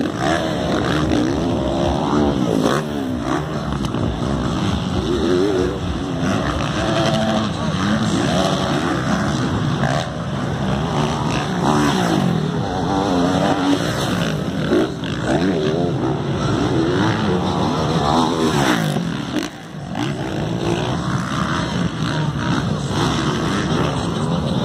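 Several motocross motorcycles racing, their engines revving up and down through gear changes with overlapping, rising and falling engine notes, one fading briefly before the others build again.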